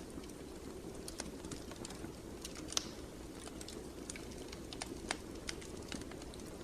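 Fire in a fireplace crackling: a steady low rumble with scattered, irregular sharp pops and snaps, one louder pop a little under three seconds in.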